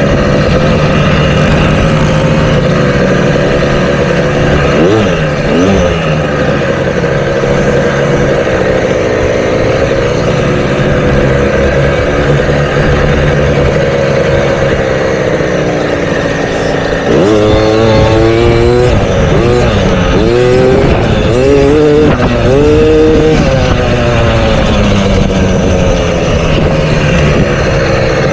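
Motocross bike engine running hard, its pitch rising and falling with the throttle and gear changes. Past the middle it goes into a run of quick revs that climb and drop several times.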